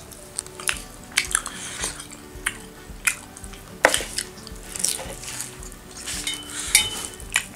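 Close-miked eating sounds: chewing and wet lip smacks on sukuti dried meat and millet dhido, with scattered sharp mouth clicks, one louder about four seconds in.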